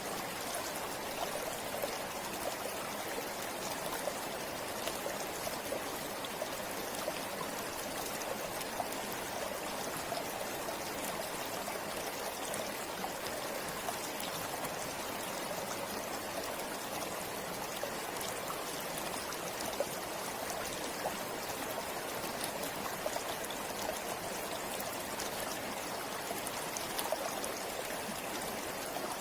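Forest river flowing steadily over rocks, a continuous rushing and trickling of water with small splashes here and there.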